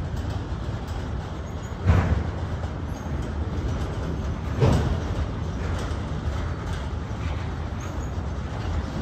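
Freight train rolling past with a steady low rumble of wheels on rail, broken twice by a heavy knock, about two seconds in and again nearly three seconds later.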